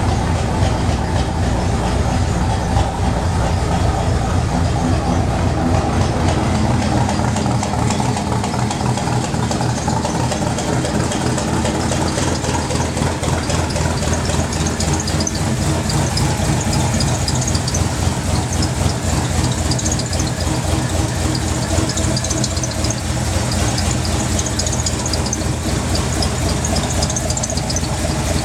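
Rebuilt engine of a 1964 Chevrolet pickup idling steadily while warming up after a cold start, its exhaust pulsing in an even, rapid beat.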